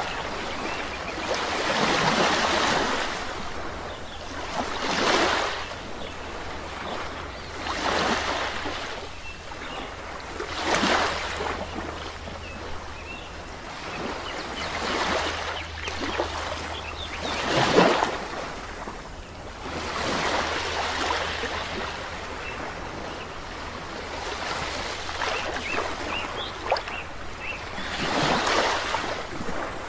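Sea waves breaking and washing on a shore, the surf swelling and falling away every few seconds.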